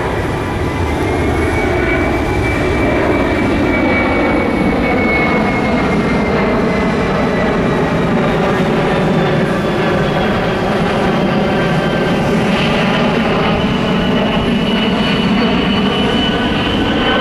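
Boeing KC-46A tanker's twin turbofan engines in flight: a steady, loud jet roar with a high whine that slowly falls in pitch as the aircraft passes.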